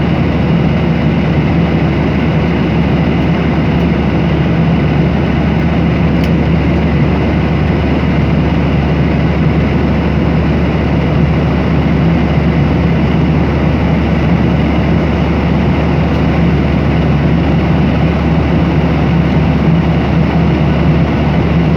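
Airliner cabin noise in flight: a steady drone of jet engines and rushing air, with a constant low hum.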